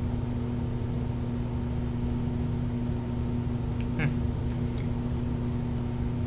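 Steady low room hum, like a fan or air conditioner, with a single brief click about four seconds in.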